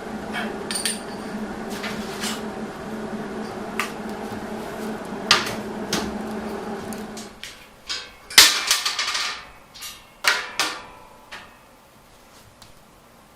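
A steady machine hum cuts off about seven seconds in. It is followed by a run of sharp metal knocks and clatter, loudest a little after eight seconds.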